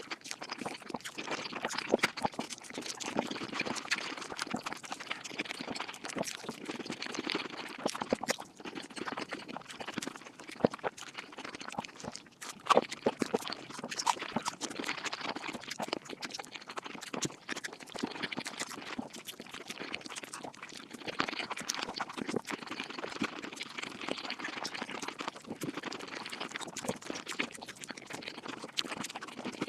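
Mukbang eating sounds sped up five times: chewing and mouth noises packed into a dense, rapid stream of clicks and smacks.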